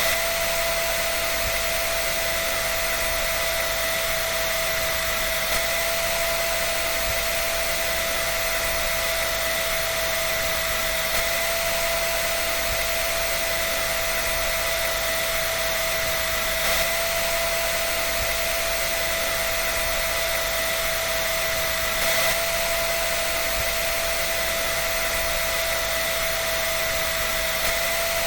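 Dryer running steadily: an even airy rush with a constant whine over it. There is a faint brief tick about every five and a half seconds.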